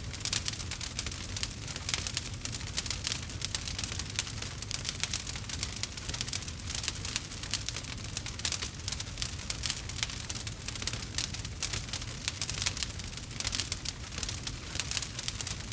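Campfire crackling steadily: a dense run of small snaps and pops over a low rumble.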